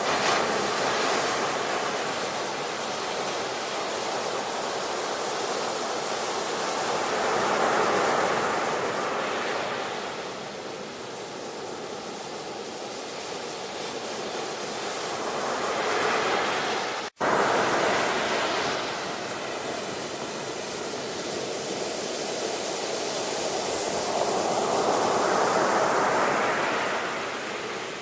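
Ocean surf: waves wash in and draw back, the rush of water swelling and fading every eight to ten seconds. The sound cuts out suddenly for an instant about two-thirds of the way through.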